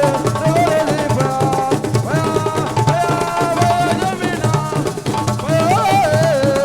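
Assiko band music: drums beating a steady, repeating rhythm under a wavering melody line.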